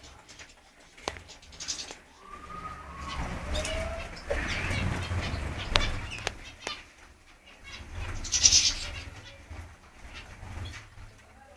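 Small aviary birds, finches and canaries, chirping in short high bursts, the loudest about 8 seconds in. Wing flutters and sharp clicks come between the calls.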